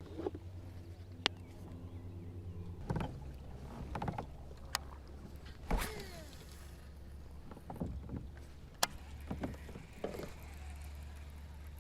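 Sounds of fishing from a kayak on the water: a steady low rumble with several sharp clicks and knocks of gear against the hull.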